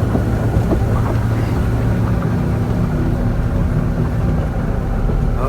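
Boat engine running steadily with a deep, even hum; a slightly higher hum tone joins about two seconds in.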